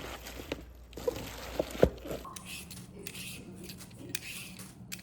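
Kitchen food-preparation sounds while making kimchi: a few sharp knocks and clatters, then from about two seconds in a run of repeated scraping or cutting strokes.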